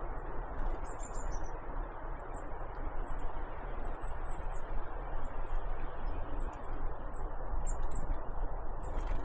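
Great tits and blue tits calling: many short, high chirps scattered throughout, over a steady low background rush.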